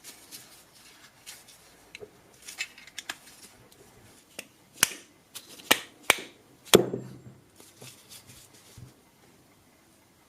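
Tools and small parts handled on a bench: scattered clicks and light knocks, with a run of sharper taps in the middle. The loudest tap comes about two-thirds of the way in and rings briefly.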